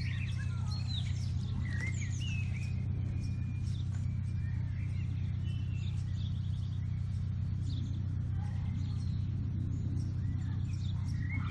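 Small songbirds chirping and calling in short, rapid phrases, busiest in the first couple of seconds, over a steady low hum.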